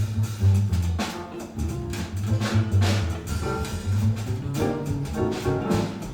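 Live small-group jazz: double bass playing a line of low plucked notes under guitar, with the drum kit keeping time on cymbals.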